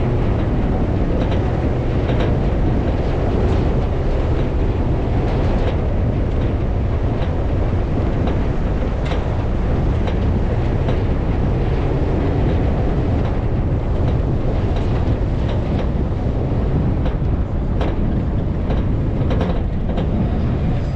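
An off-road vehicle driving over sand dunes: a steady, loud low rumble of engine and motion noise, with frequent sharp clicks and rattles throughout.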